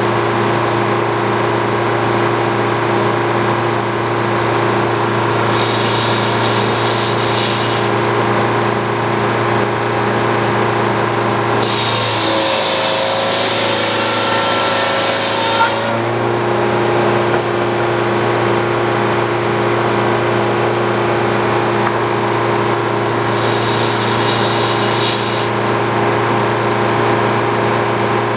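Old Frick sawmill running steadily. About twelve seconds in, the circular saw bites into a poplar log for roughly four seconds: a louder hiss of cutting, with the engine note bending lower under the load. Two shorter, fainter hisses come earlier and near the end.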